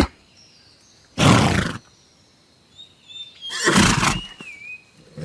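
Horse calling: two loud, rough, breathy bursts, about a second in and again about three and a half seconds in, the second with thin, wavering, high whinny notes.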